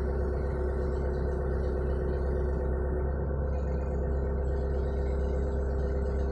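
Hitachi mini excavator's diesel engine running steadily, a low rumble with a steady whine over it.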